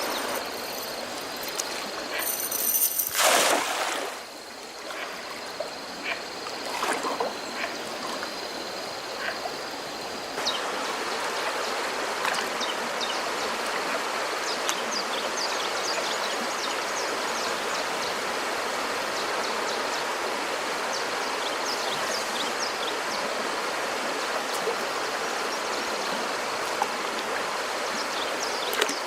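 A steady high whine of several tones with a loud rushing noise about three seconds in, then, from about ten seconds, the steady rush of a flowing stream with short high bird chirps over it.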